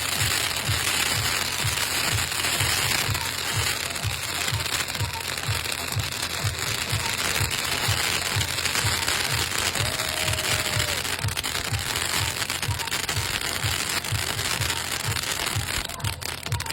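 Fireworks crackling densely and without a break, over music with a steady, fast low beat.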